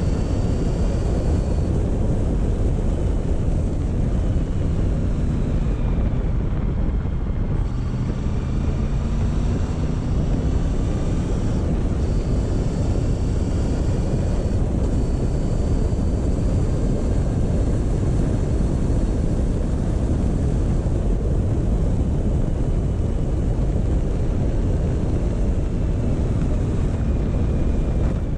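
Motorcycle engine running on the move, with heavy wind noise over the microphone. The engine pitch dips around six to seven seconds in, then climbs again.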